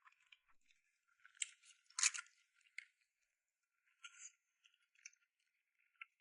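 Close-miked eating sounds: scattered crunches, clicks and wet mouth noises from chewing and biting food, with the loudest bite about two seconds in.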